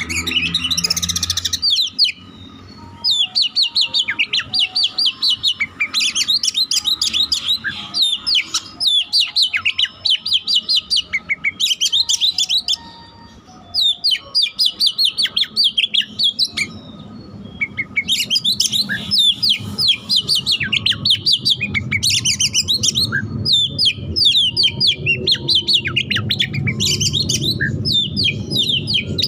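Oriental magpie-robin (kacer) singing a fast, dense song of rapid high trills and chattering phrases, in bursts of a few seconds with short pauses. This is its 'isian', the songs of other birds that it has learned and fires off one after another. A low rumble runs under the song in the second half.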